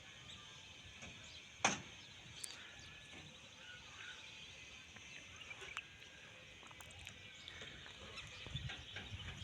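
Faint, continuous chatter of many distant birds calling, with a single sharp click about two seconds in.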